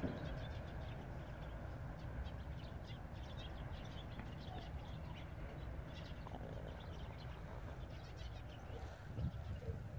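Small birds chirping faintly and repeatedly over a steady low rumble.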